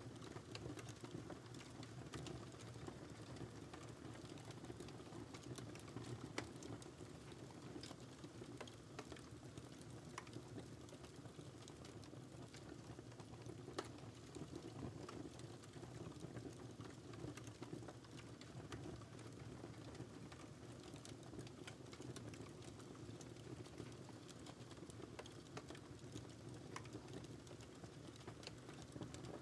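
Wood fire crackling softly: a steady low hiss of burning with irregular small pops and snaps, two louder ones about six and fourteen seconds in.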